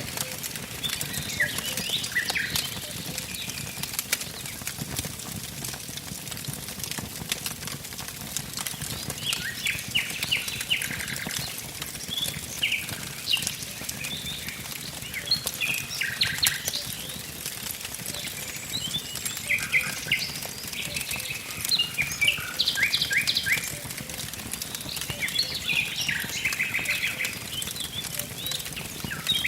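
Wood fire crackling with frequent sharp pops, while songbirds sing short repeated trills and chirps over it.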